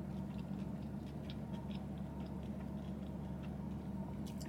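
Close-up mouth sounds of someone chewing French fries: soft, irregular clicks and smacks, with a sharper click near the end, over a steady low hum.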